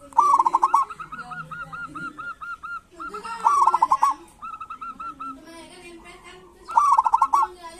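Zebra doves calling: fast runs of short repeated notes, in three loud bursts (just after the start, about halfway, and near the end) with softer runs between them. These are the kerot calls used to lure and stir other perkutut into calling.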